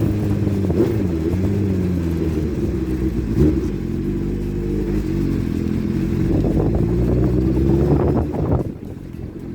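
Motorcycle engine running, its pitch falling and rising as the throttle and gears change. The engine sound drops away near the end.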